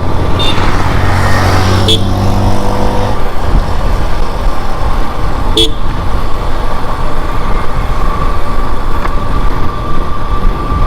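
Wind and road noise on a moving motorcycle, with a vehicle horn sounding steadily for about the first three seconds and a few short clicks.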